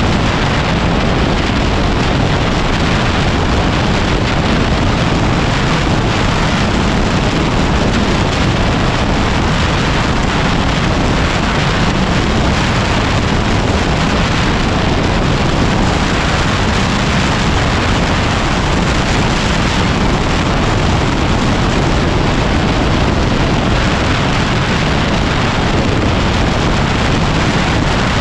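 Heavy, steady wind noise on the microphone of a moving 2010 Yamaha WR250R dual-sport motorcycle, with the bike's engine running underneath.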